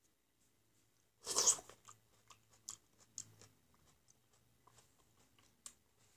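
Close-up mouth sounds of a person eating a black grape: one loud bite about a second in, then quieter chewing with many short clicks.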